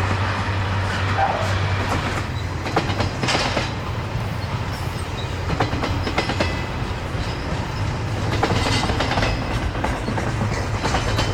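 A freight train rolling past, its steel wheels clacking over rail joints in repeated sharp clicks above a steady low rumble.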